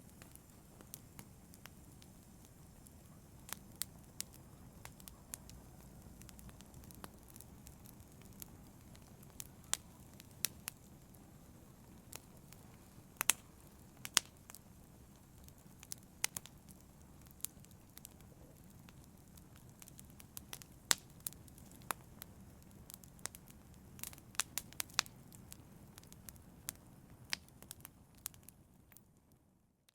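Wood fire in a fireplace crackling: irregular sharp pops and snaps over a low, steady rumble of the flames, fading out near the end.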